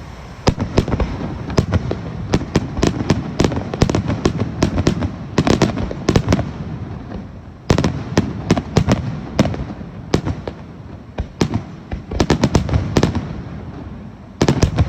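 Aerial fireworks bursting in rapid volleys: clusters of many sharp reports, each lasting about a second, come in quick succession with a rumble between them.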